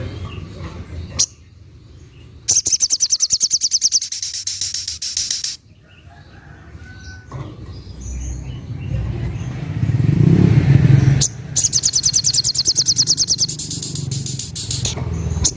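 Little spiderhunter (sogok ontong) singing its 'tembakan': two fast runs of rapidly repeated high notes, each about three seconds long, the second coming about six seconds after the first. A low rumble runs underneath and swells in the gap between them.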